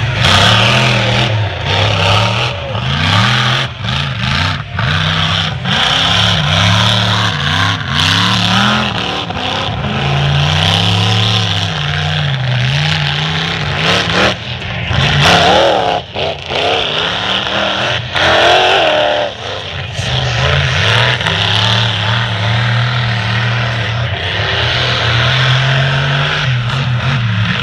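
Major Payne monster truck's engine revving hard, its pitch rising and falling over and over, with a couple of short drops in power around the middle.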